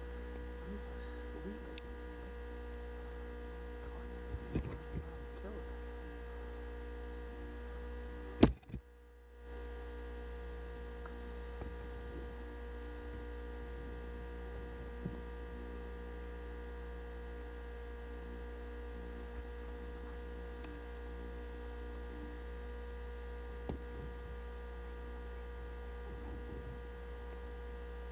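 Steady electrical hum made of several fixed tones over a low rumble, with scattered faint clicks. About eight seconds in there is one sharp, loud click, and then the sound cuts out for about a second before the hum returns.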